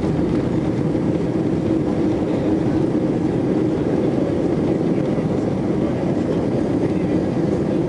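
Steady cabin noise inside an Airbus A320 airliner: the even rumble of its engines and airflow, with a constant low hum and no change in level.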